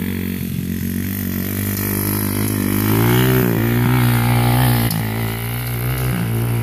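125 cc dirt bike engine running, its revs climbing and dipping around the middle, then holding steady.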